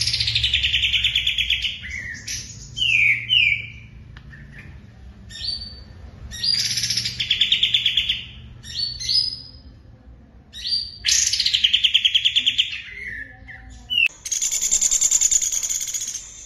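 A songbird singing in repeated phrases: a fast rattling trill about a second and a half long, sung three times, with short high notes and quick glides between, and a long buzzy high-pitched phrase near the end.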